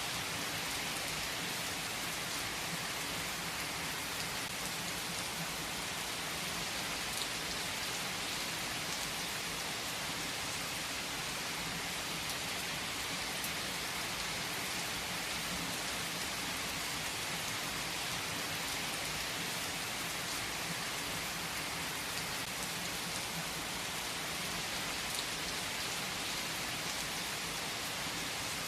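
Steady rain falling, an even hiss of drops on a surface, with a few faint clicks now and then.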